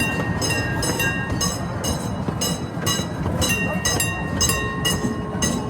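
Miniature railroad train running on its track, heard from aboard: a steady low rumble with frequent metallic clacks, each carrying a brief high ringing.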